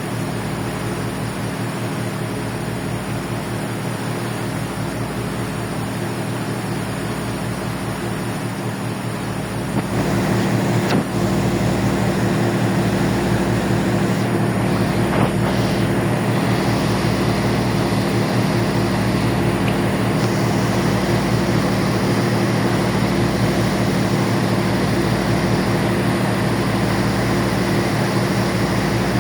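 Ferry's engines running with a steady low drone of several fixed tones and a slow throb underneath, over a constant rush of noise. It gets louder about ten seconds in and stays at that level.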